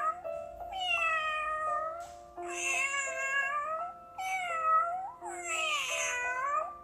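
A domestic cat meowing four times in a row, each call a drawn-out meow, over steady background music.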